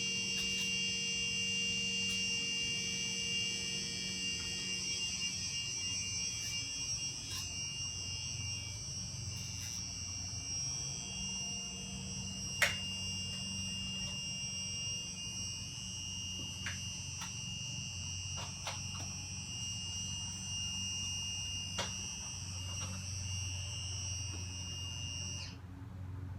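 Steady high-pitched electronic alarm tone from a battery-powered device, cutting off suddenly near the end as its battery is taken out. A few sharp clicks sound over it.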